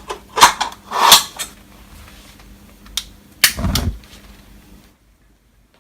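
A handful of sharp clicks and knocks, the last a heavier clunk, from the bioethanol fireplace being worked by hand as it is lit; the sounds stop about five seconds in.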